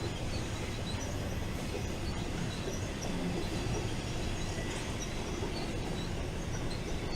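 BNSF intermodal freight train rolling past at steady speed: a continuous rumble of steel wheels on the rails.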